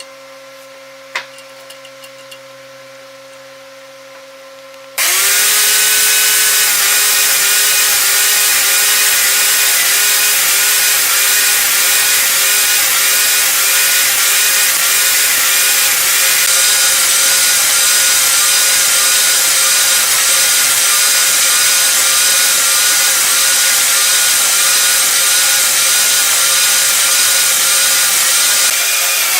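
A power tool working wood starts abruptly about five seconds in and runs steadily at high level, its pitch wavering slightly in a regular rhythm. Before it starts there is only a low hum and a single click.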